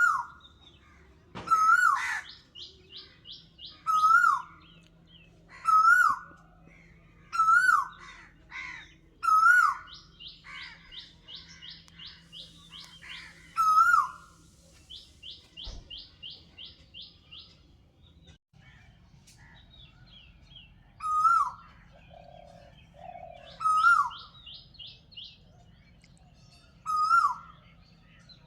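Birdsong: a short, loud call repeated about every two seconds, with a pause about two-thirds of the way through, among rapid high trills and faint high warbling from other birds.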